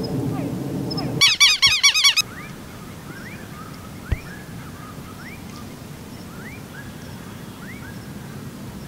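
Birds calling outdoors. About a second in, a loud burst of rapid, repeated high chirps lasts about a second, then short rising calls repeat every half second or so over a quiet background. A single knock comes about four seconds in.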